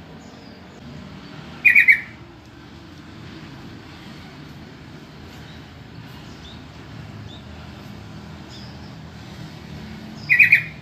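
Yellow-vented bulbul (trucukan) calling: two short bursts of three quick bubbly notes, about eight and a half seconds apart. A steady low rumble runs underneath.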